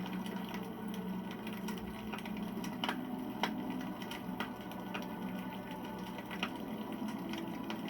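Wood fire crackling, with scattered sharp pops of burning wood, the strongest two about three seconds in, over a steady low hum.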